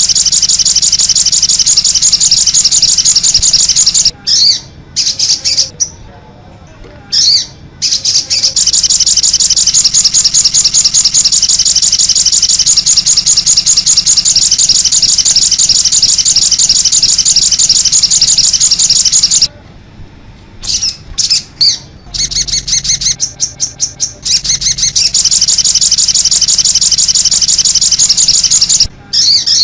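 Sogon (cit anten) bird singing a loud, high-pitched song of rapidly repeated notes in long phrases, breaking off briefly about four seconds in and again near twenty seconds in.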